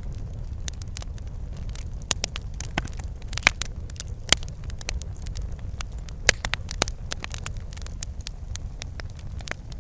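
Wood fire crackling in a fireplace, with irregular sharp pops and snaps over a steady low rumble of the burning fire.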